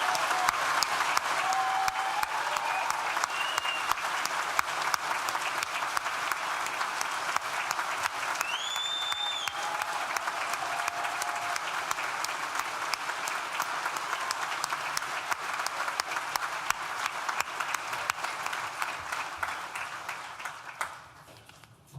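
Large audience applauding and cheering, with a few scattered whoops over the clapping; the applause dies away near the end.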